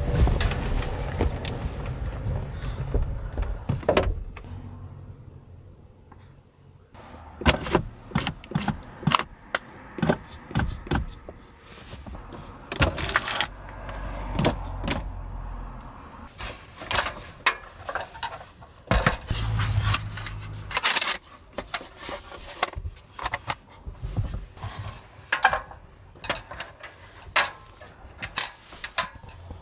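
Irregular sharp clicks, clinks and knocks of small hard objects being handled, starting about seven seconds in, with a low rumble during the first few seconds.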